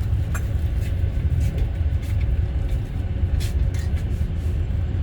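Steady low rumble of a passenger train carriage in motion, heard from inside, with faint scattered clicks and rattles.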